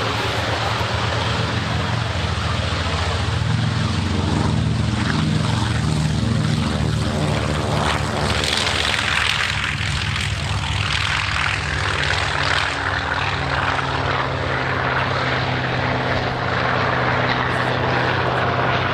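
Piston-engined propeller warbird flying a pass, its engine note dropping in pitch as it goes by about nine seconds in.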